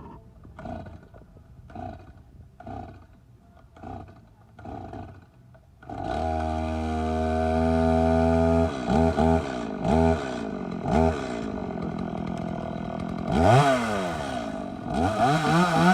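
Stihl two-stroke chainsaw being pull-started on the choke, a cold start. About five pulls of the starter cord come roughly a second apart, then the engine catches about six seconds in and runs at a steady fast idle. It is then blipped three times and revved up twice near the end.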